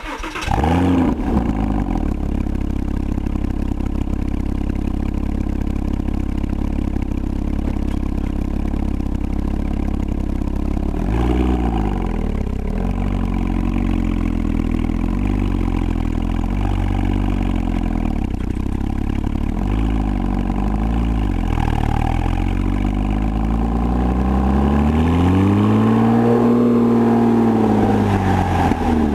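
Porsche 987 flat-six engine with a valved performance exhaust starting with a brief flare, then idling steadily. There are a few short throttle blips partway through, and near the end one longer rev that climbs and falls back.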